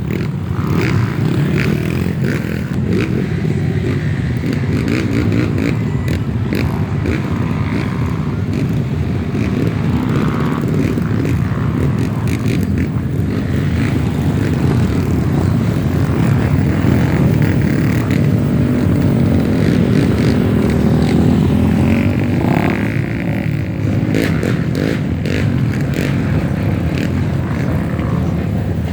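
Off-road dirt bike engines running, with the engine note rising and falling as they rev, strongest about three quarters of the way through.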